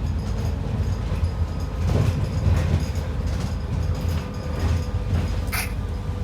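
Heard from inside an ADL Enviro 400 double-decker bus: a steady low rumble with frequent rattles and knocks of the body and fittings, and a sharp click about five and a half seconds in.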